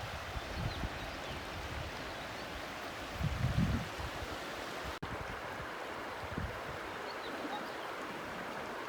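Steady rush of falling water at the Sablinka River waterfall, with a gust of wind buffeting the microphone about three and a half seconds in.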